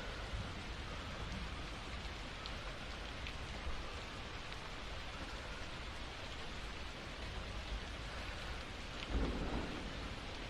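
Steady rain, with a low rumble of thunder starting a little past nine seconds in.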